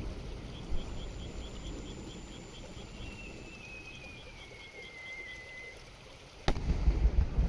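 A firework shell's whistle glides down in pitch for a few seconds, then the shell bursts with a sharp bang about six and a half seconds in, followed by a low rumble. A faint rhythmic chirping, about five pulses a second, carries on in the background.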